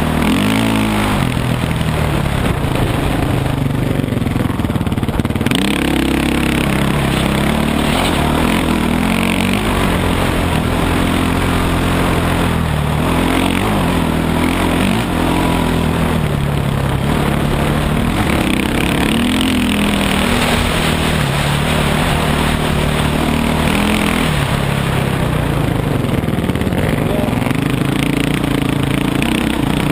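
Dirt bike engine running under way, its pitch repeatedly climbing and dropping every few seconds as the rider accelerates and eases off.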